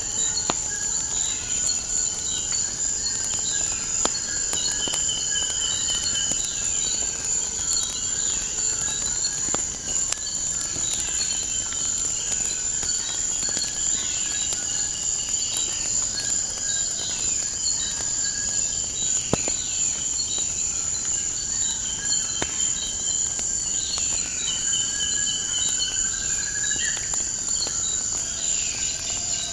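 Steady high-pitched insect trill, like crickets, running without a break, with birds chirping and warbling over it and scattered sharp crackles of a wood fire.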